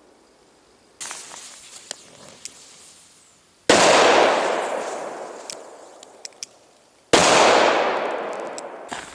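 Firecrackers going off: a smaller crack about a second in, then two loud bangs about three and a half seconds apart, each trailing off in a long echo.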